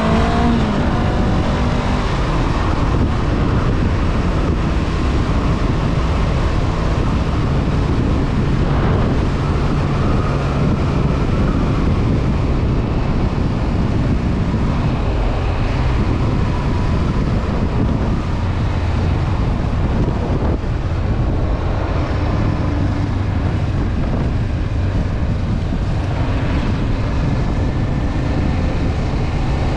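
Honda CB500F's parallel-twin engine on the move, its pitch rising in the first second as it accelerates and then holding steady at cruising speed. Heavy wind noise rushes over the microphone throughout.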